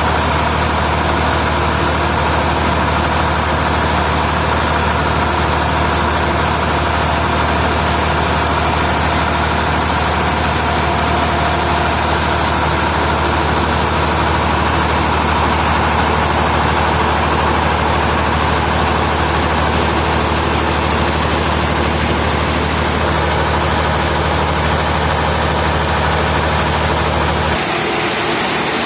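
A heavy engine running steadily at a constant speed, a loud low hum with a broad mechanical noise over it; the low hum cuts out abruptly near the end.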